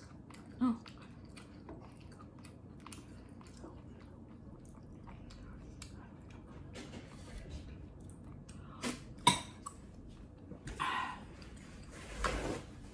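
A person chewing and eating creamy fettuccine with chicken and broccoli close to the microphone: scattered small wet mouth clicks, with one sharper click about nine seconds in. Near the end there is a brief papery rustle as a paper towel is handled.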